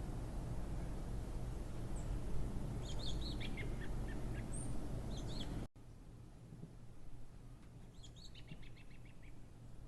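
Small birds chirping in quick series of short high notes, twice, over a steady low rumble that drops away abruptly about halfway through.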